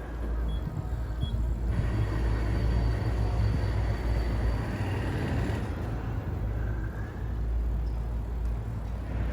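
Road traffic: motor vehicles passing with a steady low rumble.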